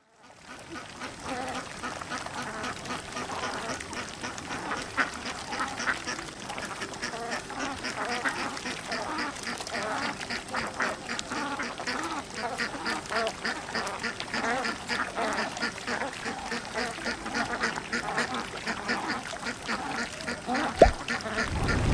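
Ducks quacking, many calls overlapping continuously, with one sharp click near the end.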